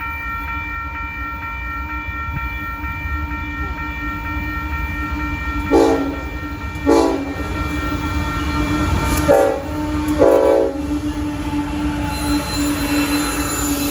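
Freight train rolling slowly through a grade crossing with a steady low rumble, while the crossing signal rings steadily. A train horn sounds four short blasts about halfway through, and a high hiss of wheel squeal rises near the end.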